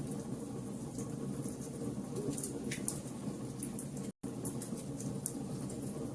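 Fire burning: a steady low rush of flame with scattered sharp crackles and pops. The sound cuts out completely for an instant just after four seconds.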